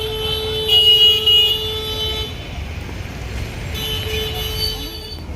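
Road traffic with a steady low rumble and vehicle horns sounding. The loudest is a horn blast about a second in, and another sustained horn tone comes back near the end.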